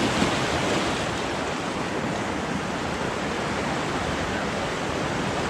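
River rapids rushing steadily around a raft.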